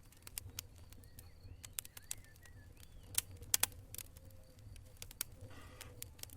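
Wood fire burning in a fireplace: irregular sharp crackles and pops over a low steady rumble of flames. A few faint short high whistles come around two seconds in.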